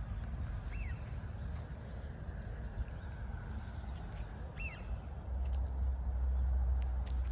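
Outdoor ambience: a steady low rumble that grows louder about five seconds in, with a bird's short chirp twice, about a second in and again midway.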